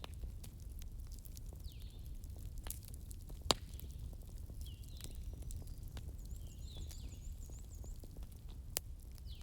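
Wood fire crackling over a low steady rumble, with many small snaps and two sharp pops, one about three and a half seconds in and one near the end. Short high chirps repeat every second or two alongside it.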